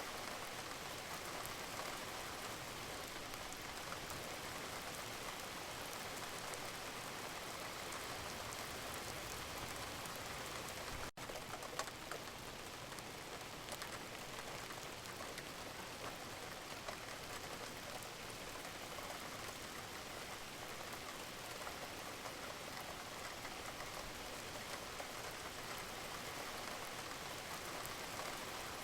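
Steady rain falling, an even hiss dotted with fine drop patter, with a momentary dropout about eleven seconds in.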